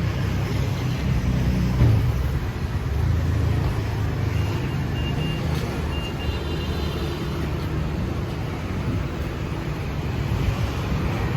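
Street traffic passing: a steady low rumble of vehicle engines and tyres, with a faint high tone coming and going in the middle.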